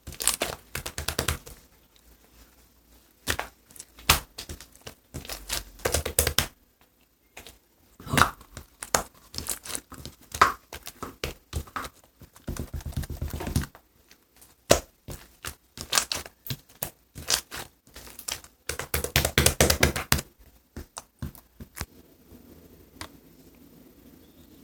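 Hand-handling noise: tearing and crinkling of a thin sheet material in irregular bursts, with light knocks between them.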